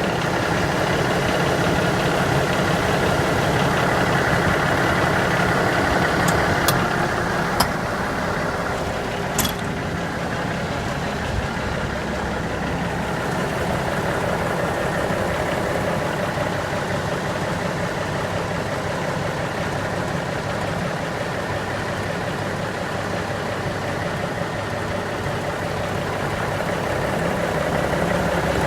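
Cummins diesel engine of a 1984 International S 2200 truck idling steadily, with three brief sharp clicks about a quarter of the way through.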